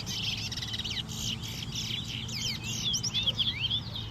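Towa-towa (chestnut-bellied seed finches) singing a quick, continuous run of high chirps and sweeping twitters; in a bird race each song like this is counted toward the bird's tally.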